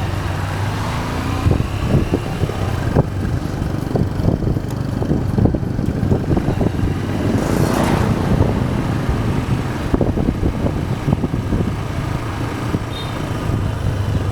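Motorcycle engine running steadily at low speed on a slow ride, with street noise and many scattered short knocks. A rushing noise swells and fades about seven to eight seconds in.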